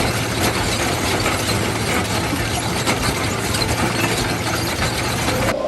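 Trencher working: a steady engine under a dense, loud mechanical clatter, which cuts off suddenly near the end.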